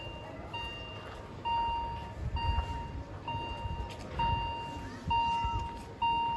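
Level crossing warning signal beeping: a single electronic tone, each beep about half a second long, repeating a little faster than once a second.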